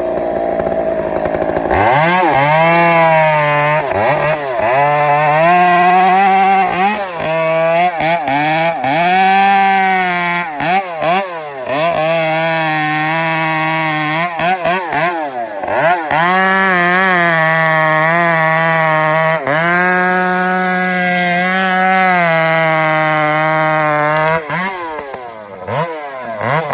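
Two-stroke chainsaw opened up to high revs about two seconds in, its pitch repeatedly dipping and recovering as the chain is loaded in a cut of timber.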